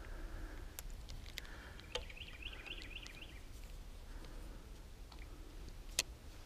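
A songbird gives a quick run of about six repeated chirping notes, a little over two seconds in, over a faint low rumble, with a few light clicks, the sharpest near the end.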